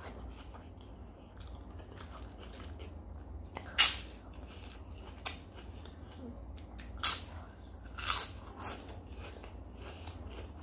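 A person chewing close to the microphone, with a few sharp, loud crunches as bites are taken from crisp fried papad: about four seconds in, then around seven and eight seconds.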